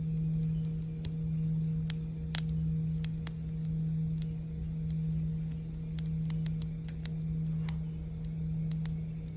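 A singing bowl ringing on in a steady low hum that swells and fades about once a second, over a campfire crackling with scattered sharp pops. The loudest pop comes about two and a half seconds in.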